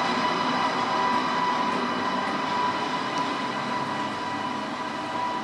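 TGV Lyria high-speed train pulling out of the station, its running sound with a steady electric whine slowly fading as it moves away.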